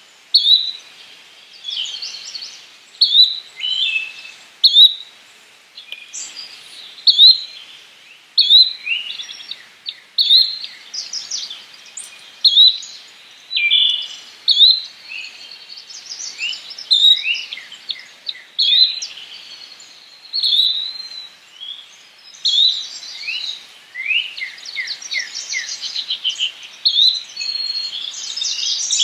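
Yellow-bellied flycatcher calling: a short, sharp note repeated about every one and a half to two seconds, among other birdsong that overlaps it, including a quick run of notes near the end.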